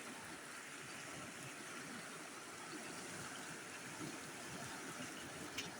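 Steady rush of water, with a brief click near the end.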